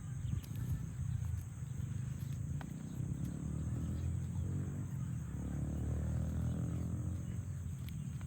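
A cow mooing: one long, low moo in the middle.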